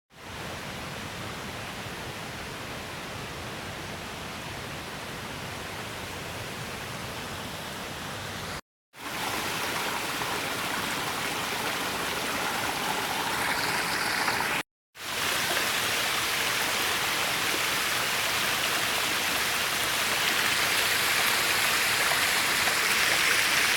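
Waterfall: a steady rush of falling water, in three takes split by brief silent cuts about 9 and 15 seconds in, each a little louder than the one before.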